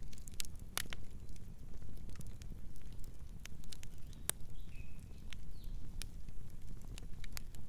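Wood fire crackling, with sharp pops at irregular intervals over a low rumble. A brief faint bird chirp comes about halfway through.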